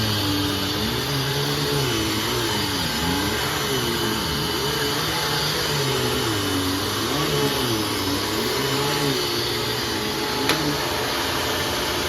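Hoover Fold Away TurboPOWER 3100 upright vacuum cleaner running, its motor hum wavering up and down in pitch every second or two, with one sharp click near the end. The owner says the motor needs replacing.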